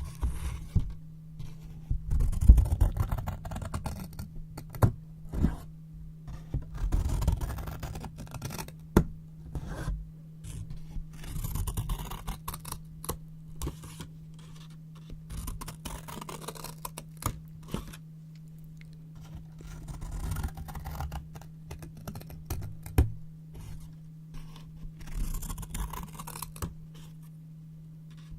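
Brown paper rustling and being cut with scissors: crisp scraping and crinkling broken by many sharp snips and clicks, in irregular bunches.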